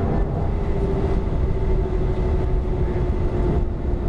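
Boeing 737-300's CFM56 jet engines running, heard inside the passenger cabin as a steady low rumble with a constant hum.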